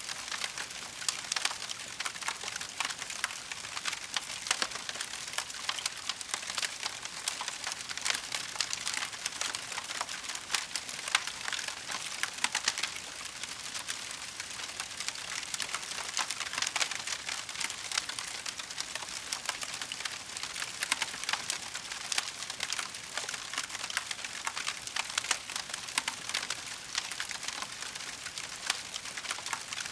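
Wood fire crackling steadily: a dense stream of small sharp pops and snaps over a soft hiss.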